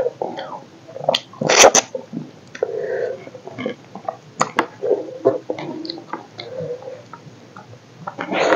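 Close-miked eating by hand: chewing, lip smacks and wet clicks of a mouthful of rice and chicken curry, with fingers working the rice on the plate. One loud, sharp breathy noise comes about a second and a half in, and a busier run of mouth noises near the end.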